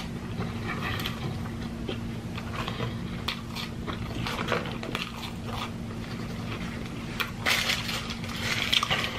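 Close-miked mouth sounds of a person chewing a breakfast sandwich, with many small wet clicks and crunches. Near the end comes a louder stretch of crinkling as the paper wrapper is handled.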